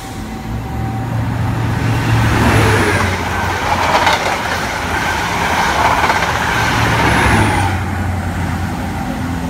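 InterCity 125 (HST) running through the station at speed: the steady low drone of its class 43 diesel power cars under a loud rush of wheel and rail noise from the Mark 3 coaches. It builds over the first two seconds, stays loud, then eases near the end as the rear power car passes.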